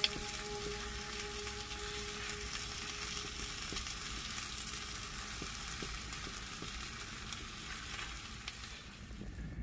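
Sundae (Korean blood sausage) and perilla leaves sizzling in a cast-iron skillet over a portable butane gas stove on low heat, stirred with a wooden spatula, with scattered light scrapes and taps against the pan.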